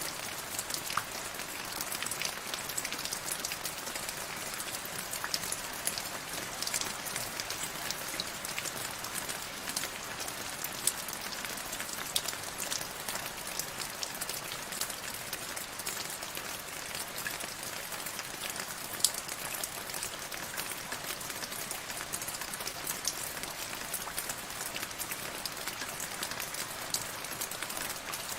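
Steady rain falling, a continuous hiss dotted with the ticks of individual drops landing.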